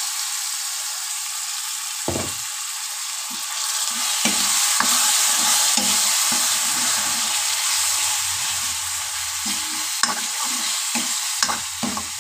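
Onion-tomato masala sizzling as it fries in a kadhai, the sizzle swelling about four seconds in. A spatula stirs through it with irregular scrapes and knocks against the pan, a few sharp clicks near the end.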